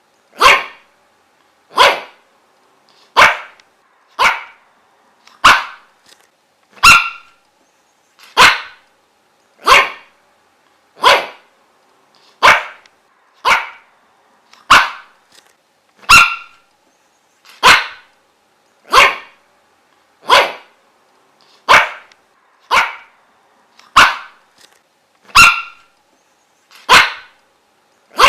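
A dog barking steadily, one short, sharp bark at a time, about three barks every four seconds with silence in between.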